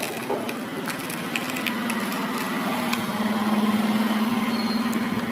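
Small electric motor of a battery-powered plastic toy whirring steadily, with scattered light plastic clicks from handling. The hum grows louder about three seconds in.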